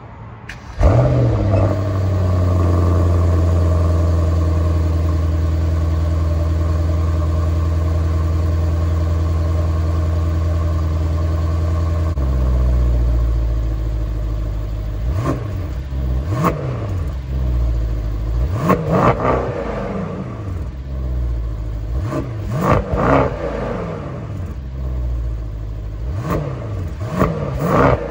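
2018 Mercedes-AMG E63 S's 4.0-litre twin-turbo V8 starting up about a second in and holding a high idle, dropping to a lower idle around twelve seconds in, then revved in a series of short throttle blips, each a quick rise and fall in pitch, heard from behind the car at the exhaust.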